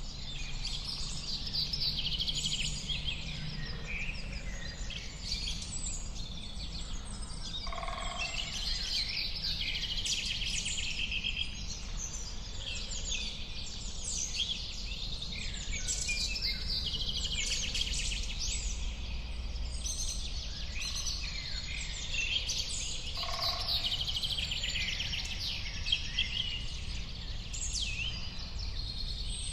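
A dense chorus of many songbirds singing and chirping at once, with rapid overlapping trills and tweets, over a low steady background rumble. Twice, about eight seconds in and again near twenty-three seconds, a lower two-note call stands out.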